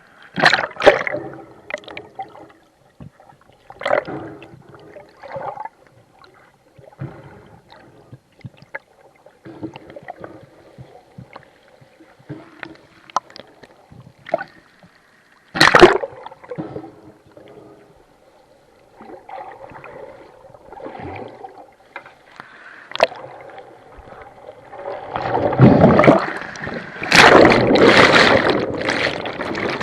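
Rough sea water sloshing and gurgling, with a few sharp splashes and a longer loud rush of churning water in the last few seconds.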